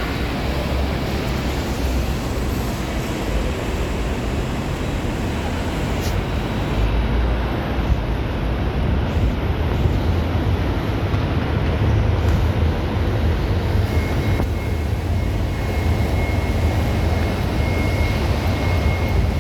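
Several wall-mounted fine-mesh fans running together: a steady rush of air with a low rumble. A faint high tone joins about two-thirds of the way through.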